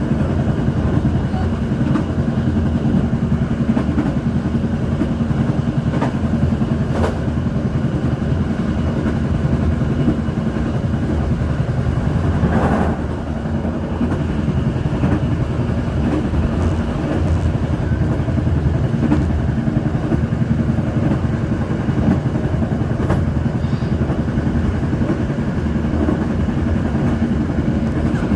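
Steady rumble of a passenger train running along the line, heard from the rear of the last carriage, with a brief dip and a short rising sound about halfway through.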